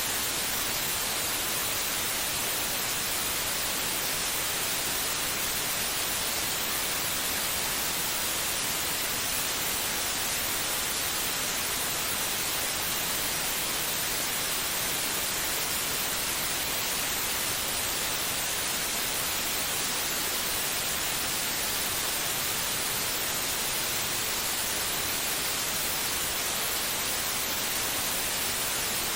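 Steady white noise: an even, bright hiss that never changes, used as a baby-soothing sound.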